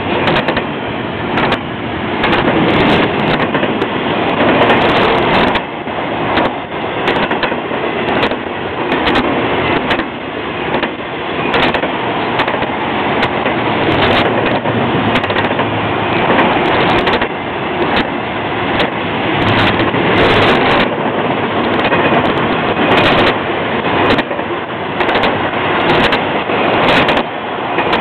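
Intermodal freight train cars, double-stack container cars and trailer flatcars, rolling past close by. Their steel wheels on the rails make a loud, steady rumble and rattle, broken by frequent sharp clicks and clanks.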